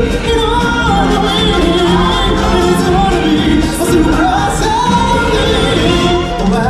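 Loud show music with a group of voices singing a wavering melody over a full backing track.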